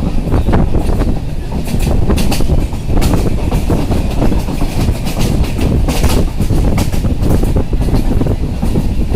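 Moving train: a steady low rumble of the carriage, with irregular clacks of the wheels over the rail joints.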